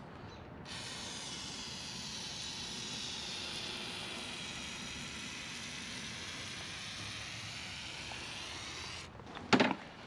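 Aerosol can of Maxima MPPL penetrating lube spraying in one long steady hiss for about eight seconds onto a motorcycle chain, then a single sharp knock near the end.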